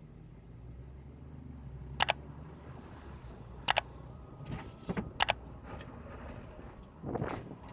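Car running steadily, with three loud, sharp double clicks about a second and a half apart.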